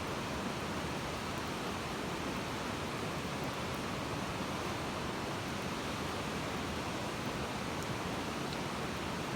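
Wood campfire burning: a steady rushing noise with only a few faint pops, one near the start and a couple near the end.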